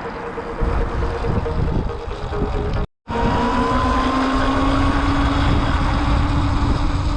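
Heavy wind rumble on the microphone while riding a Sur-Ron X electric dirt bike, with a steady motor whine. The sound drops out for an instant about three seconds in. After that the whine carries on, and a fainter, higher whine rises slowly.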